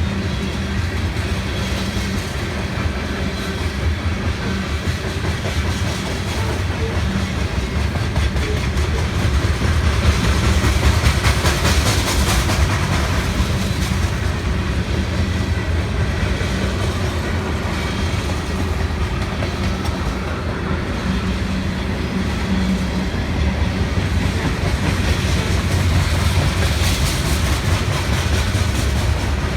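Freight train rolling past at close range, a steady rumble with the clickety-clack of wheels over the rail joints. The rumble swells with extra rail hiss about twelve seconds in and again near the end.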